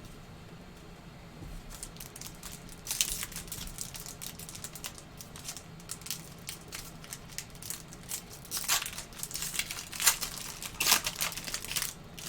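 Wrapper of a Panini Flux basketball card pack being torn open and crinkled by hand: irregular crackling and rustling, loudest about three seconds in and several times in the second half.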